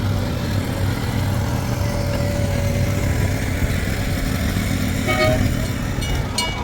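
Steady low rumble of a motor vehicle, with a brief horn-like toot about five seconds in. A run of evenly spaced clinks with a ringing tone begins near the end.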